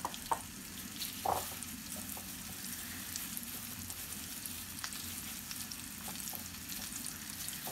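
A flour-coated chicken wing deep-frying in a pan of hot oil: a steady sizzle with fine crackles, and a soft tap about a second in.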